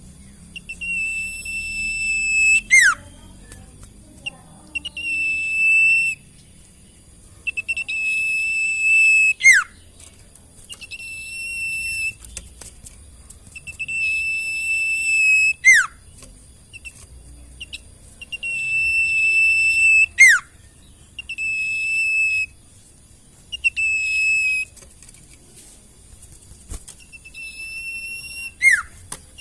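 Sirtu bird song for use as masteran: sharp, steeply falling whistles alternating with long, steady high whistled notes, in phrases repeated every few seconds with short pauses between.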